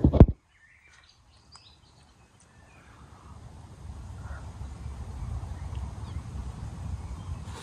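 A loud knock at the very start, then faint bird chirps about a second to two and a half seconds in, followed by a low rumble that builds from about three seconds in.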